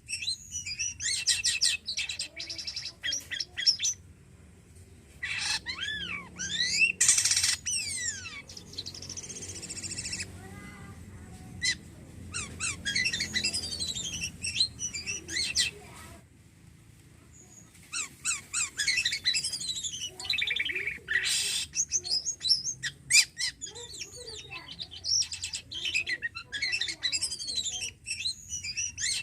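Jalak kapas starling singing at full volume in long, fast phrases of sweeping whistles and chattering notes, with a harsher buzzy passage in the middle and two brief pauses.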